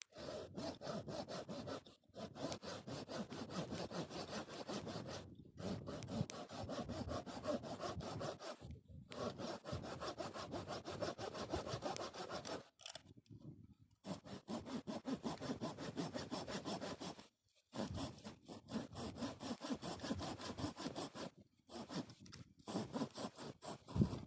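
Hand saw cutting through firewood in quick back-and-forth strokes, stopping briefly every few seconds before carrying on.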